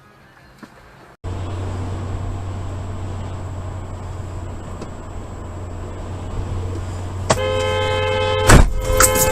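Steady engine and road noise from a moving car. About seven seconds in, a car horn starts and keeps blaring. Partway through the honking comes a loud bang of impact, the loudest sound here.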